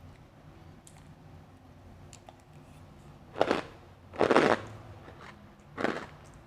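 Blended ice made from frozen grape soda being bitten and chewed: three soft crunches in the second half, the middle one the longest.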